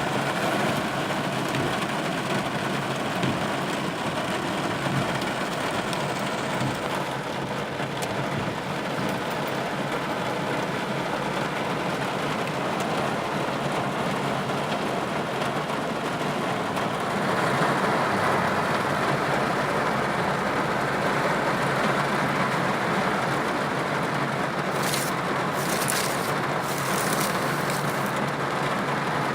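Heavy summer rain falling steadily, a dense even hiss of drops that grows a little heavier and louder a bit more than halfway through.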